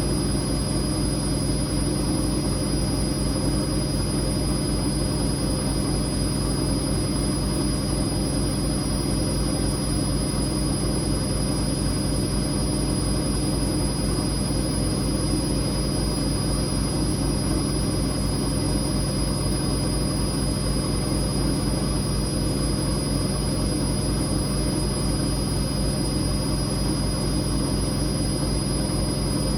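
Whirlpool Indiana 1400 front-loading washing machine in its final high-speed spin, drum running at a steady 1400 rpm with a steady hum and a thin high whine.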